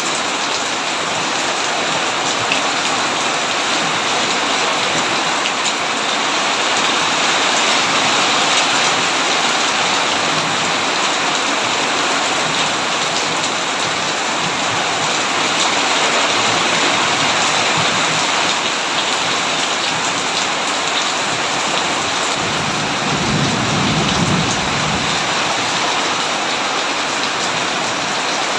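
Heavy rain falling steadily on a tin roof, with a low rumble of thunder lasting about three seconds late on.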